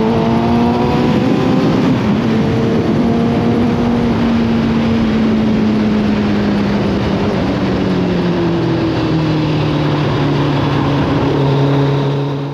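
Motorcycle engine running under way, its note climbing for the first second or two, then easing down slowly with a few steps in pitch, over a steady rush of wind noise.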